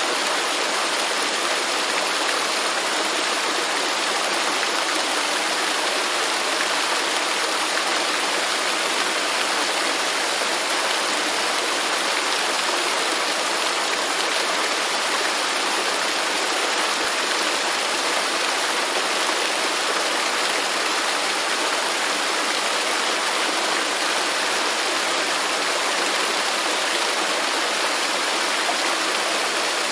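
Waterfall: a steady, even rush of falling water, unbroken by any other sound.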